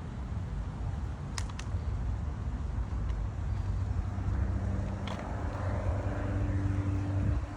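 Low, steady rumble of a vehicle, with two quick clicks about a second and a half in and another near the middle. A steady hum joins about halfway through.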